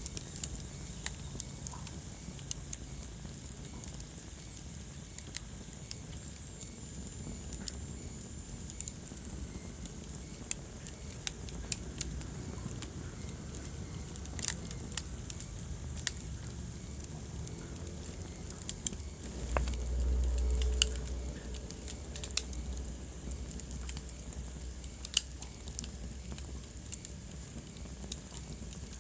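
Wood fire crackling, with irregular sharp pops over a steady low rumble of the flames; the rumble swells for a couple of seconds about two-thirds of the way through.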